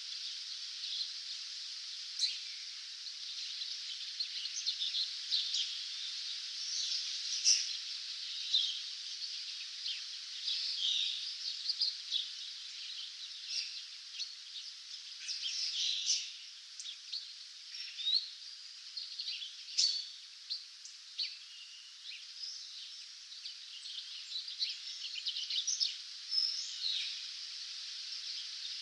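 Several songbirds singing in a dawn chorus, many short chirps and trills overlapping over a steady high hiss.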